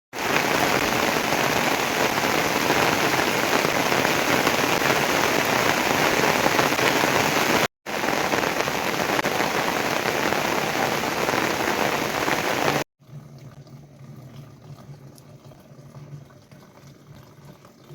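Heavy rain falling steadily, heard in two shots joined by an abrupt cut. About 13 seconds in it cuts to a much quieter scene with a faint steady low hum and a few scattered light ticks.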